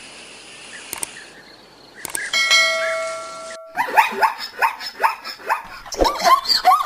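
A single bell-like chime rings and fades, then a rapid series of short animal calls follows, several a second and rising and falling in pitch.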